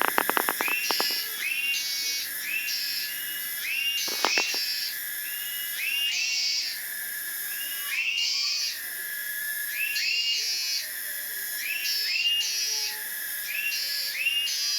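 Cicadas calling: a rising call repeats about once a second over a steady high buzz. A short rattle of rapid clicks comes at the start and again about four seconds in.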